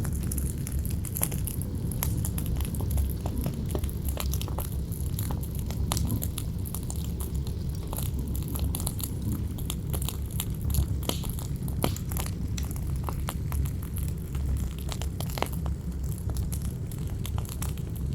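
Campfire crackling, with many irregular sharp pops and snaps from the burning wood, over a steady low rumble of wind.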